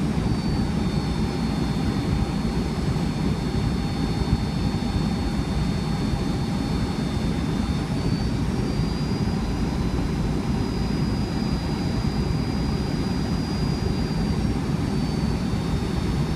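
Boeing 757 cabin noise: a steady jet engine and airflow rumble, with a thin high engine whine that shifts slightly in pitch a couple of times.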